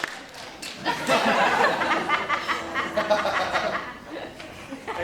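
Audience laughing and chattering in a hall, building about a second in and easing off toward the end.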